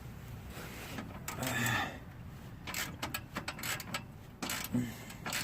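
Metal hand tools clicking and scraping on a car's exhaust pipe as a repair piece is fitted, with a run of irregular sharp clicks in the middle and a short grunt early on.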